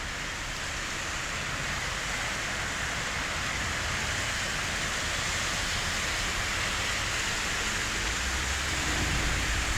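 Heavy rain and storm runoff flooding over a street and sidewalk where the storm drains are overwhelmed: a steady rushing hiss. A low rumble grows near the end.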